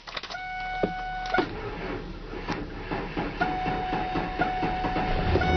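2000 Ford F150's 4.2 V6 cranking on the starter in freezing cold, with a weak battery, and catching near the end. A steady dashboard warning tone sounds over it.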